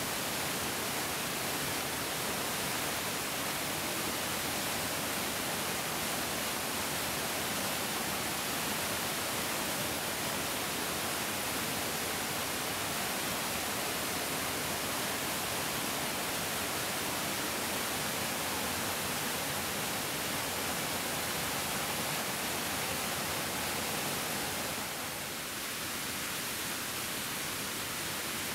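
Mountain stream rushing steadily, a dense even hiss of flowing water, briefly a little softer about 25 seconds in.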